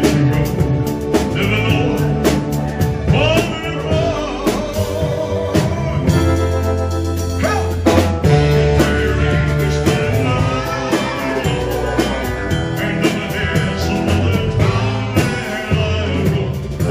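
Live band playing a mid-tempo rock ballad, with drums, bass, guitar and keyboards and a voice singing over it.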